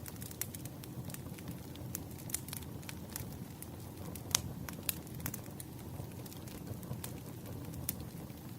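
Wood fire burning: a steady low rumble of flames with irregular sharp crackles and pops, the loudest pop about four seconds in.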